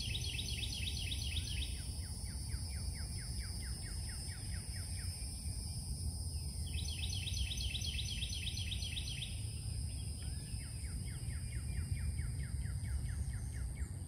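A songbird singing trills, each a run of quickly repeated notes, with higher phrases alternating with lower ones. Under it run a steady high-pitched whine and a constant low outdoor rumble.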